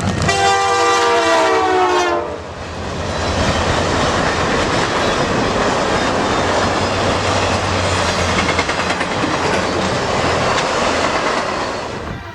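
Canadian Pacific freight locomotive's air horn sounding one chord for about two seconds, dipping in pitch as it cuts off, followed by the steady rumble and clickety-clack of the train's wheels on the rails as it passes close by.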